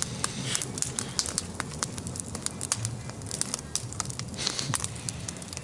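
Bonfire crackling: irregular sharp pops and snaps of burning wood over a low steady hum.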